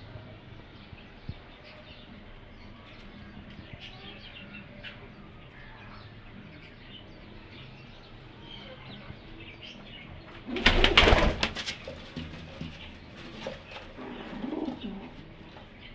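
Pigeons or doves cooing with small birds chirping, and a sudden loud rustling burst lasting about a second and a half, about ten seconds in.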